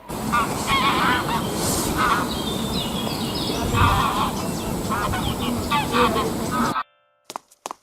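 Geese honking, repeated calls over a steady background noise; the sound cuts off near the end, leaving a few sharp clicks.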